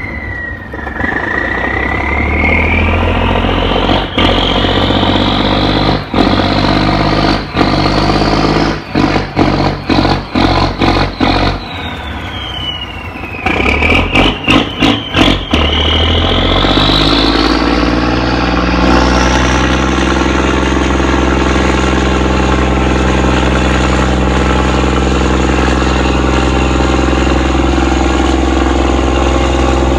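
Cummins diesel boat engine revving up, easing off briefly a little under halfway through, then climbing again and holding at steady high revs. A high whine rises and falls with the engine speed.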